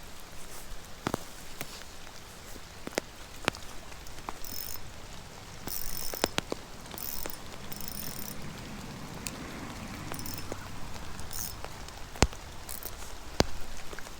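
Steady rain falling on the water, with scattered sharp taps of drops hitting close to the microphone and a few short hissy bursts.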